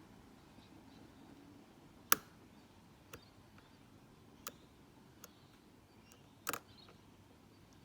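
Sharp little metallic clicks from a Mako padlock being picked: the pick working the pins in the keyway under a tension wrench. About five clicks come at irregular gaps, the loudest about two seconds in and another strong one a little past the middle.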